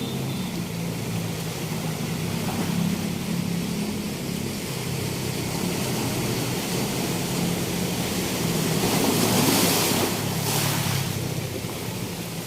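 Sea waves washing on a beach in a steady rush, with one wave breaking louder about nine to eleven seconds in. A low hum sits faintly underneath.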